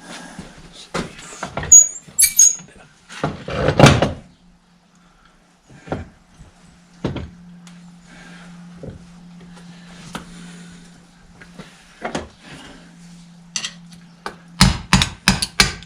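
Metal tractor parts being worked into place by hand: scattered clunks and scrapes, a loud clatter about four seconds in, and a quick run of about six sharp knocks near the end, as in tapping a part home.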